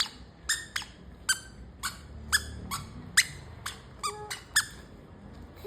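A run of short, high squeaks, about two a second, each a quick downward chirp, with one slightly longer, stepped squeak about four seconds in.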